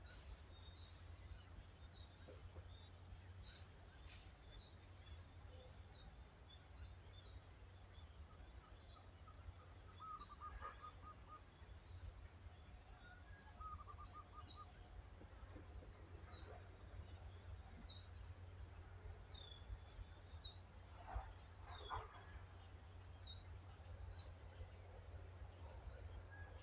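Small birds chirping faintly over a steady low rumble, with short high chirps repeating about once or twice a second. There are two brief lower trills about ten and thirteen seconds in, and a thin high note held for about six seconds just past the middle.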